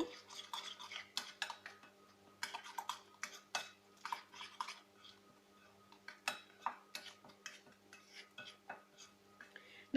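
Spoon stirring a thick yogurt-and-spice marinade in a mixing bowl: irregular light clinks and scrapes of the spoon against the bowl, in short clusters with brief pauses.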